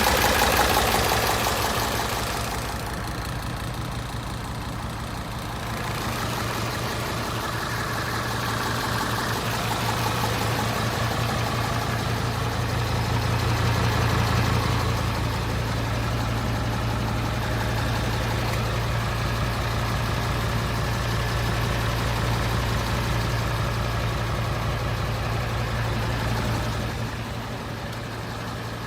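Hino J08C inline-six diesel engine idling steadily.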